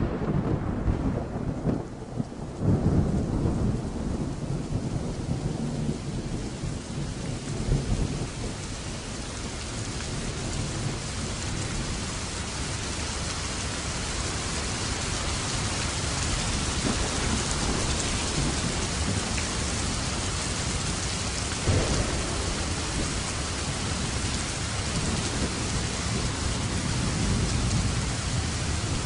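Thunderstorm: heavy rain falling steadily, with rolling thunder rumbling through the first several seconds and a short crack of thunder about three quarters of the way through.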